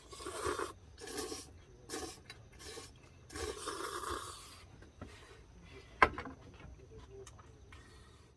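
Several rubbing, scraping strokes of something being handled, followed by a single sharp click about six seconds in.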